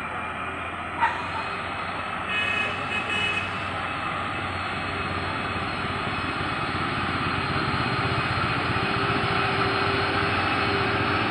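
Heavy truck's diesel engine labouring on a steep climb, growing slowly louder. A sharp knock comes about a second in, and a brief high-pitched tone sounds a couple of seconds later.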